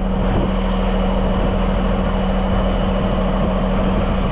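Heavy truck's diesel engine running steadily while it works the Landoll trailer's hydraulics, with a constant hum and a faint high whine.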